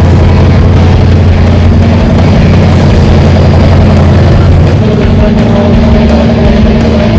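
Off-road truck's Chevy 454 big-block V8 running steadily and loudly, its note changing about five seconds in.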